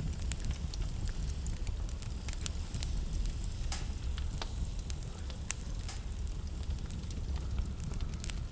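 Wood fire crackling in a fireplace: a steady low rumble of flames under scattered sharp pops and snaps at irregular intervals.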